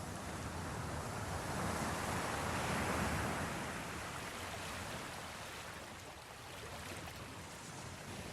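Sea waves washing, one surge swelling up to a peak about three seconds in and then ebbing away.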